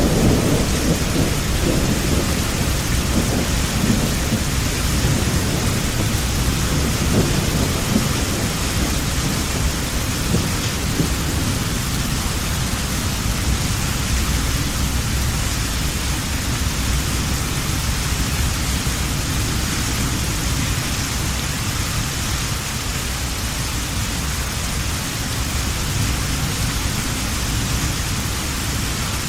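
Steady heavy rain with a low rolling thunder rumble that fades away over the first ten seconds or so.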